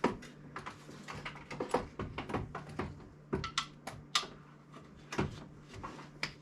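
Irregular metallic clicks and clinks of tools and sockets being handled and fitted under a car, coming in uneven clusters with a faint steady hum beneath.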